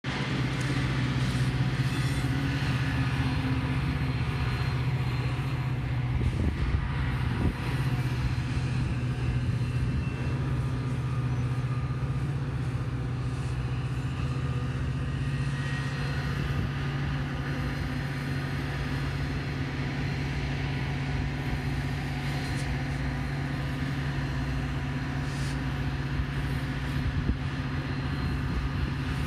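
Metra commuter train rolling past at a grade crossing: a steady low diesel drone over the continuous rumble of the passing cars.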